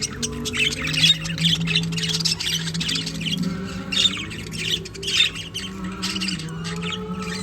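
Several budgerigars chattering, with a constant stream of quick chirps and squawks; the loudest squawks come about a second, four seconds and five seconds in.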